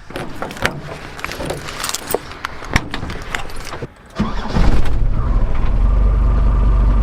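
Keys and small clicks and rattles for about four seconds, then the Mercedes T1 camper van's engine starts and settles straight into a steady idle with a thin constant tone over it.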